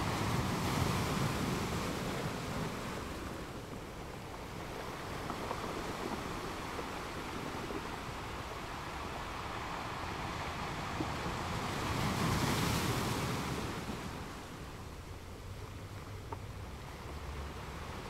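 Ocean surf: small waves breaking and washing up the shore, the rush of water swelling twice, once right at the start and again about twelve seconds in.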